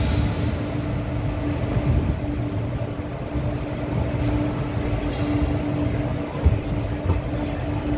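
Passenger train running slowly, heard from an open coach doorway: a steady rumble of wheels on rail with a constant hum. A brief high squeal about five seconds in and two short thumps near the end.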